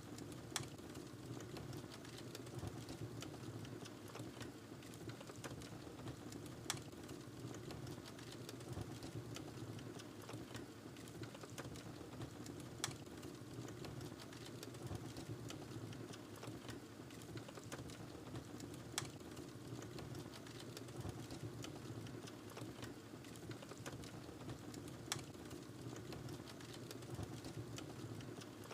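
Wood fire burning in a fireplace: a steady low rumble of flame with constant small crackles, and a sharper pop about every six seconds.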